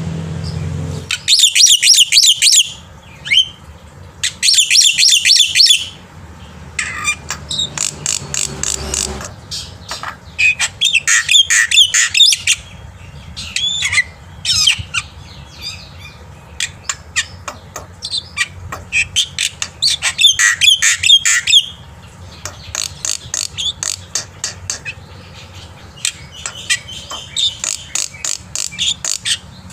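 Black-winged myna (jalak putih) singing in full, constant song. It gives repeated phrases of rapid, harsh chattering and squawking notes, each about one to two seconds long, separated by short pauses.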